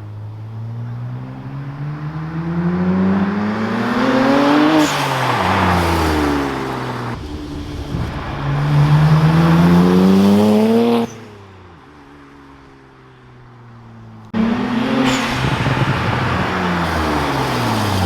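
BMW 335i's turbocharged inline-six through a 3.5-inch straight-pipe exhaust with a single muffler, its pitch climbing under acceleration and falling back as it lifts off, twice. The sound breaks off suddenly about eleven seconds in to a quieter stretch, then picks up again with a third short rise and fall.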